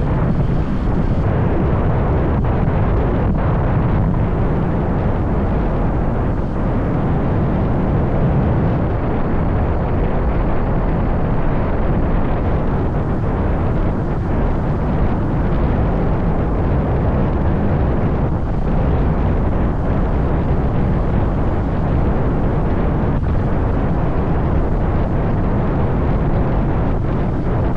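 Steady, loud wind rumble on the microphone mixed with the motorbike's running and road noise while riding, with no clear engine note standing out.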